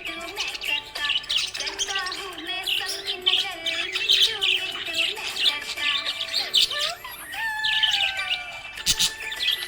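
Budgerigars chirping and warbling together in rapid, overlapping high chirps, with a couple of longer falling calls about seven seconds in, over soft background music.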